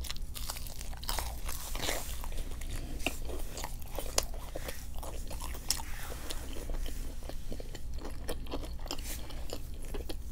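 A person chewing and crunching food, a steady run of small mouth clicks and crunches.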